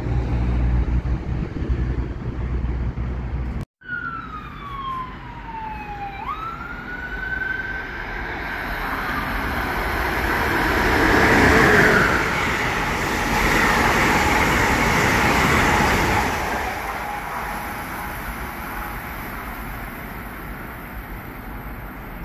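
A passenger train passes at speed on the far track, its rumble and rail noise building to a peak about halfway through and then fading slowly. Before it comes close, a siren wails, its pitch sliding down and then back up.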